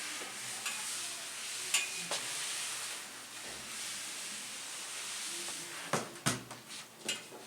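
Hand iron sliding back and forth over fabric and paper-backed fusible web on an ironing board, a steady hissing scrape. A few sharp knocks, two close together about six seconds in, as the iron or fabric is handled.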